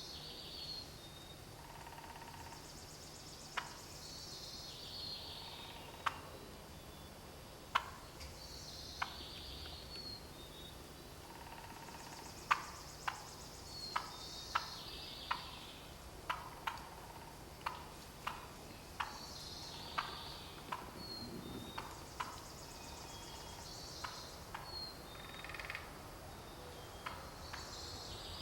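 Wild turkeys calling: a run of short, sharp clucks, densest about halfway through, while songbirds sing short high phrases over and over.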